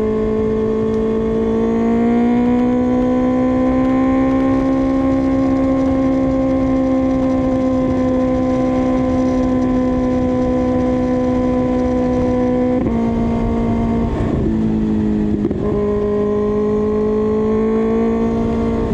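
2024 Kawasaki ZX-6R's inline-four engine running at steady revs while riding, over low wind rush. About two-thirds through the engine note changes abruptly and wavers, then settles a little lower and climbs gently near the end.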